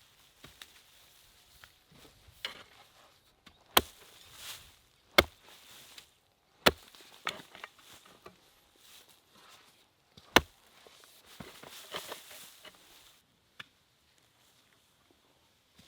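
Four sharp chopping strikes, irregularly spaced a second or more apart, among softer clicks and rustling.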